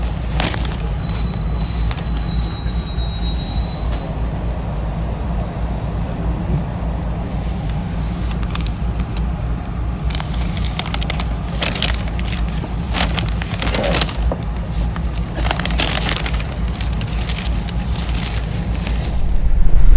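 Commuter train running, heard from on board: a steady low rumble with scattered clicks and rattles, and a thin high whine over the first few seconds. It gets louder right at the end.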